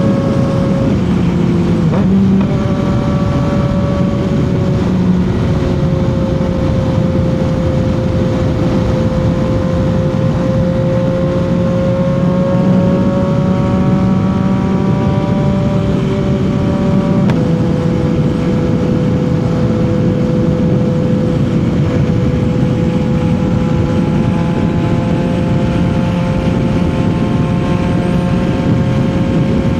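CFMOTO 675 motorcycle's inline-three engine pulling at steady highway revs, its pitch drifting slowly down and back up. The engine note breaks twice, about two seconds in and again just past halfway, where it drops suddenly to a lower pitch as with an upshift, over a constant rushing noise.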